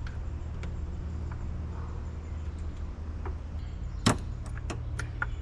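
A few sharp metallic clicks and clanks of hand tools, a torque wrench on a socket extension, as a spark plug is tightened. They come about four seconds in, the first the loudest, over a steady low hum.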